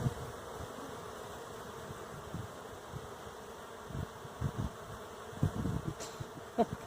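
Honeybees buzzing around a hive, a steady hum, with a few soft low thumps from about four seconds in.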